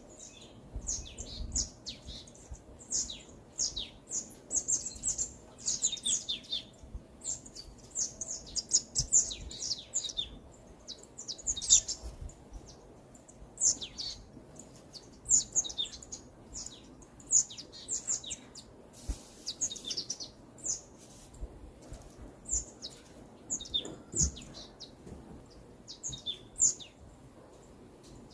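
Forest birdsong: several small birds chirping and twittering with quick, high, down-slurred notes, one after another with hardly a pause.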